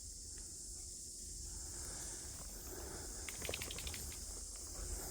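Faint outdoor ambience: a steady high-pitched hiss over a low rumble, with a quick run of light clicks about three and a half seconds in.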